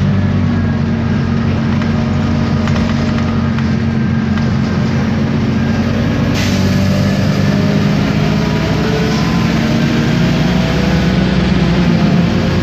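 Isobus City 1200 city bus under way: the MAN D0836 LOH six-cylinder diesel runs steadily, with a whine from the ZF automatic gearbox and differential that shifts slowly in pitch. About six seconds in, a hiss joins in.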